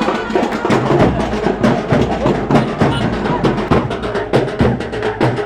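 Drums playing a fast, dense rhythm of sharp strikes.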